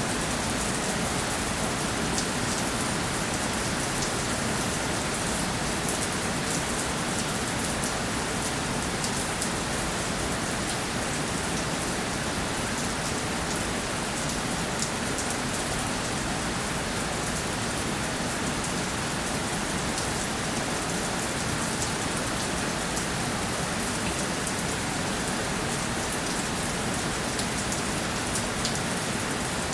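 Steady rainfall, with individual drops pattering on a surface.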